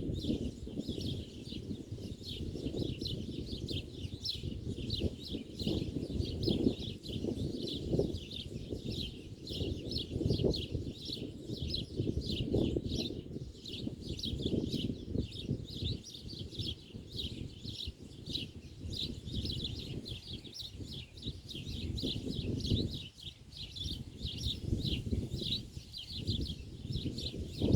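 Many small birds chirping in a dense, continuous chorus of rapid, high, overlapping chirps, over a low, uneven rumble.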